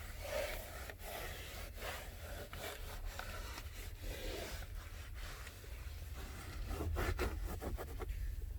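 A disinfecting wipe rubbed back and forth over the truck's interior door trim and handles: a run of irregular rubbing strokes, a little brisker near the end.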